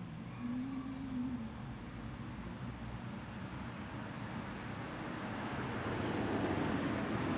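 Outdoor ambience: a steady high-pitched insect drone, like crickets, over a low rumbling noise that grows louder in the second half.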